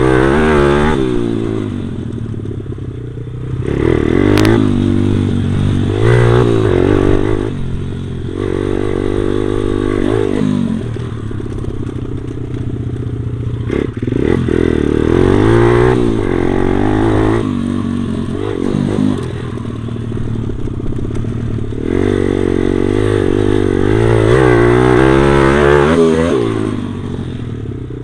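Stomp pit bike's small single-cylinder four-stroke engine being ridden, revving up and easing off again and again, each climb in pitch lasting a second or two, heard close from the rider's body. A sharp click about four seconds in.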